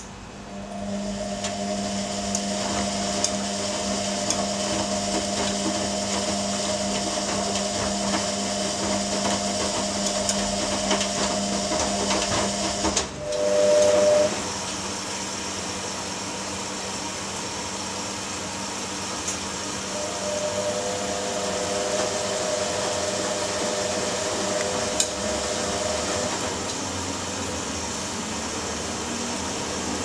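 Ariston AQXL95 washing machine running, a steady motor hum and whine. About 13 seconds in it cuts out briefly, a short louder tone sounds for about a second, and then the running sound resumes.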